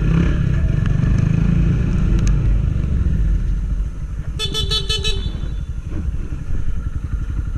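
Honda CG 160 Titan's single-cylinder engine running at low revs, with a horn giving about six quick beeps about halfway through.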